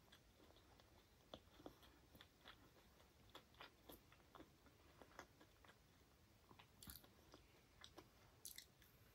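Faint close-miked mouth sounds of someone chewing soft Indian sweets: irregular small wet clicks and smacks, a few a second.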